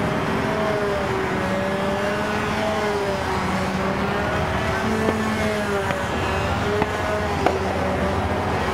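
Small model airplane engine running at full speed on a control line plane circling overhead, its buzzing pitch rising and falling about once a second with each lap. A few sharp ticks come through near the end.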